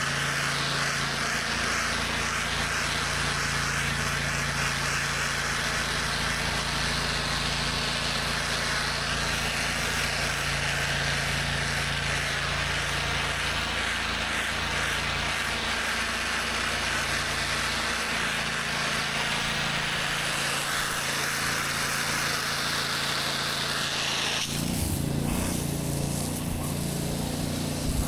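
Gas-engine pressure washer running steadily while high-pressure water sprays, a strong hiss over the engine hum. About 24 seconds in the spray stops and the engine note changes.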